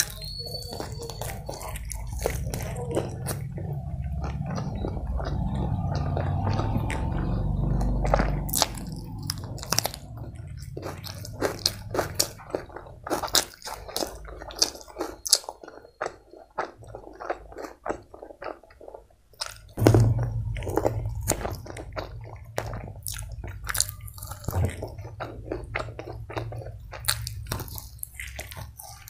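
Close-miked chewing and biting of chicken lollipop and biryani, with dense, irregular wet mouth clicks and smacks. A low rumble sits under the chewing for the first third, fades, and returns about two-thirds in.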